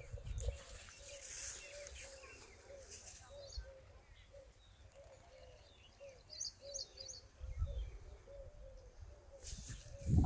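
A bird calling a long series of short, low, evenly repeated notes, about two or three a second, with a few brief high chirps from another bird about two-thirds of the way through. A low rumble on the microphone comes and goes.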